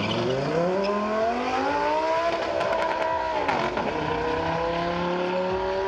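High-performance sports car engine accelerating hard in a drag race: its pitch climbs, levels off, drops sharply at a gear change about three and a half seconds in, with a few sharp crackles around the shift, then climbs again in the next gear.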